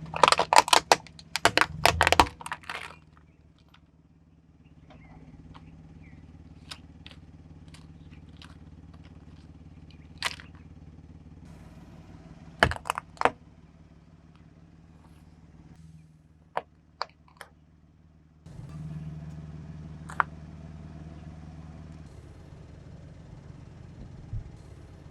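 A car tyre rolling over and crushing brittle objects: a quick run of loud cracking and crunching in the first two seconds, then single sharp cracks and snaps now and then. A steady low engine hum runs underneath.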